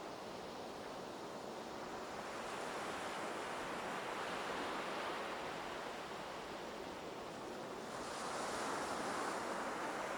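Ocean surf washing onto the beach, a steady rush of water that swells louder twice, about halfway through and again near the end, as waves break.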